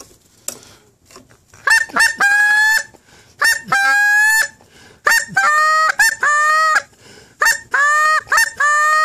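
Canada goose honking: a run of loud, pitched honks in several quick clusters starting about two seconds in, some notes clipped short and others held.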